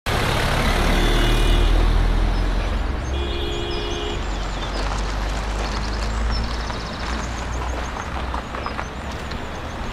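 A car engine running with a steady low rumble, with two brief pitched tones about one and three seconds in and faint high chirps like small birds.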